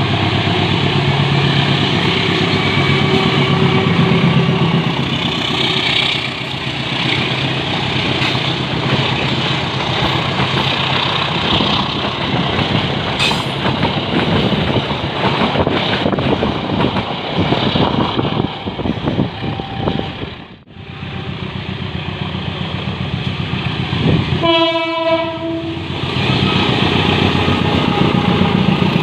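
Train passing on the rails with a steady engine hum and continuous wheel clatter. The sound dips sharply about two-thirds of the way through. A single horn blast of about a second follows a few seconds later.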